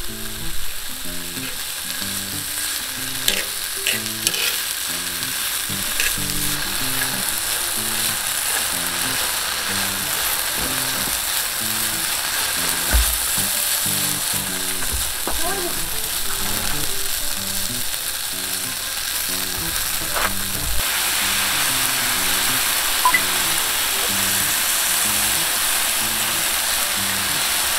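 Chicken pieces, leeks and rice balls sizzling steadily on a hot aluminium-alloy multi griddle over a gas burner, with a few light clicks. The sizzle grows a little louder about two-thirds of the way through.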